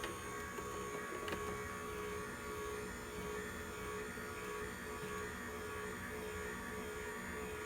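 AMZChef slow masticating juicer running steadily with a hum as it presses beets and beet greens, with one faint click about a second in.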